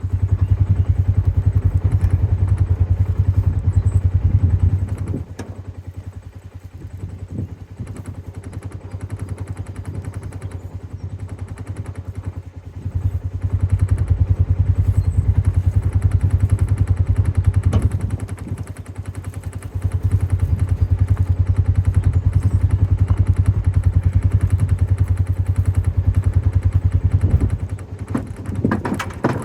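A vehicle engine running with a low rumble, pulling loud for several seconds at a time three times and dropping back to a lower level in between, with occasional knocks and clatter.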